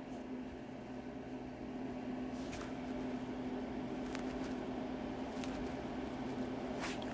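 Low, steady electrical hum with a faint background hiss, broken by a few faint clicks.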